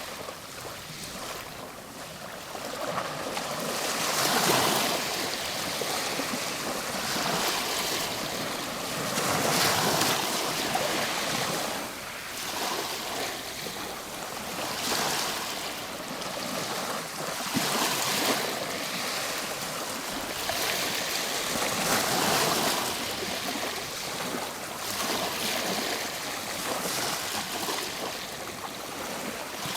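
Ocean waves breaking and washing ashore, a steady surf rush that swells louder every five or six seconds as each wave comes in.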